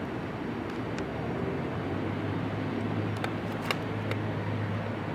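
Steady engine and vehicle noise with a low hum that grows stronger about three seconds in, and a few short sharp clicks a little after that.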